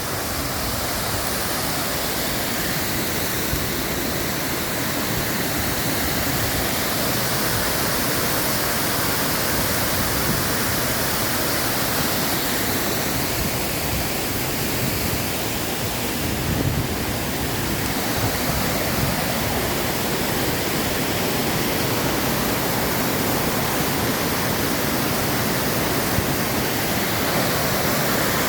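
Waterfall rushing steadily, a loud, unbroken roar of falling water.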